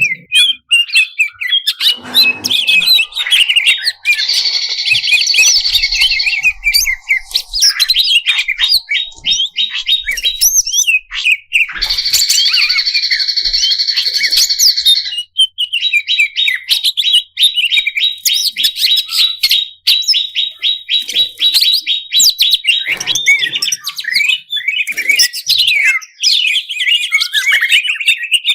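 Cucak cungkok leafbird (cucak ijo) singing loudly and without pause: a varied stream of fast chirps and trills, with harsh buzzy passages about four and twelve seconds in and a long run of rapid repeated notes in the middle. This is the fully worked song used to provoke other cucak ijo into singing.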